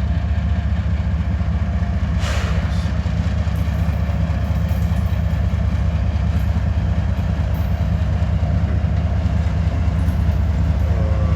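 Steady low rumble of an idling engine, with a brief hiss about two seconds in.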